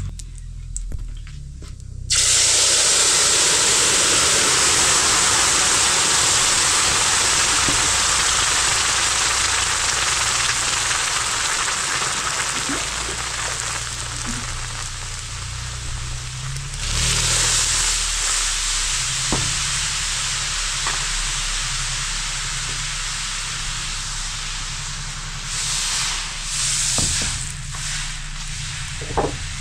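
Food hitting hot oil in a cooking pan, sizzling loudly from about two seconds in. The sizzle slowly dies down, swells again about seventeen seconds in, and is broken by a few short knocks near the end.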